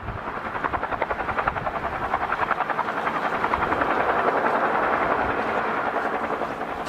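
An aircraft passing close, with a fast, even pulsing in its sound. It grows louder to a peak about four seconds in, then begins to fade.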